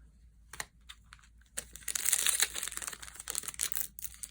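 Plastic foil wrapper of a Magic: The Gathering booster pack crinkling as it is handled and torn open, starting about a second and a half in and trailing off near the end.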